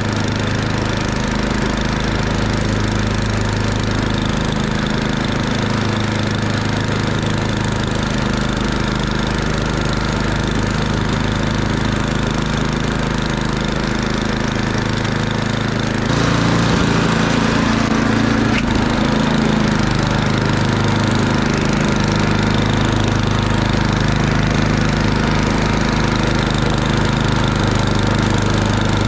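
Murray Ultra 8/27 snowblower's 8 hp engine running steadily. A little past halfway the sound gets louder and stays louder.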